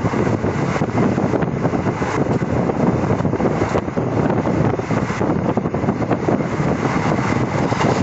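Express passenger train running at speed: a steady rumble of wheels on rail, with wind buffeting the microphone.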